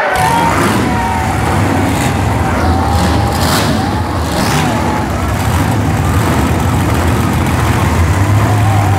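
Monster truck engines running loudly and steadily, with a low, constant drone.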